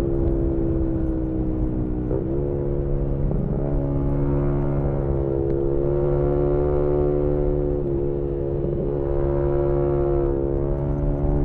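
A 2018 Yamaha MT-125's single-cylinder engine with an aftermarket GPR exhaust, heard onboard while riding at fairly steady revs. The pitch steps briefly about two seconds in and again around eight to nine seconds, then rises near the end as the bike accelerates, with wind rumble underneath.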